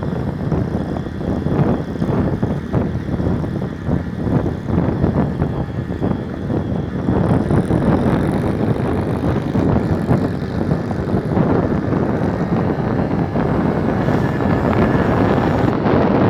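Small motorcycle engine running under way, a steady dense drone that gets a little louder about halfway through.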